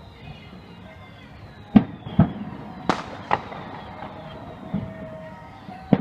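Firework display: six sharp bangs of shells bursting at irregular spacing, under faint high whistles that slide down in pitch.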